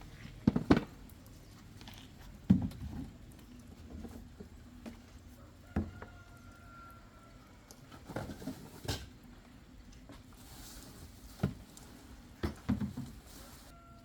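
A few irregular knocks and clatters, a second or a few seconds apart, over a low steady background hum.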